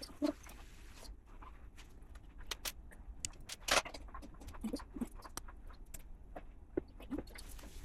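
Small plastic LEGO pieces clicking and clattering as they are handled, with a louder brief rustle just under four seconds in.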